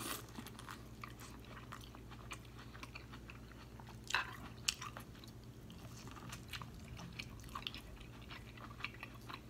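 A person biting and chewing sauce-coated corn on the cob: many small wet clicks and crunches, with a few louder bites near the start and about four seconds in.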